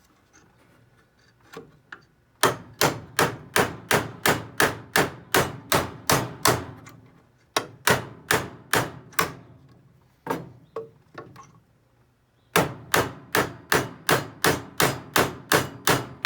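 Hammer blows on a big flathead screwdriver held against a nail head, driving a nail through a knot in the wood: runs of sharp, quick strikes, about four a second, broken by short pauses and one lone blow.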